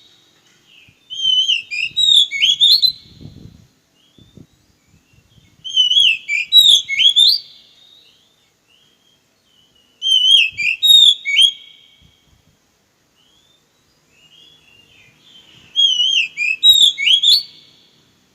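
Oriental magpie-robin (kacer) singing: the same short, loud whistled phrase of rising and falling notes, repeated four times with pauses of a few seconds between.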